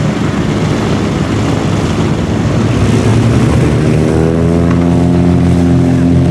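Radial piston aircraft engines running, with the propeller noise growing and rising in pitch about halfway through as the engines are opened up, then holding a steady drone.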